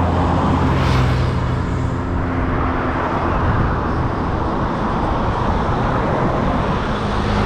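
Road noise from motor traffic passing a bicycle on the road, with a rushing, flickering noise typical of wind on the microphone. A vehicle engine's steady hum fades out in the first few seconds.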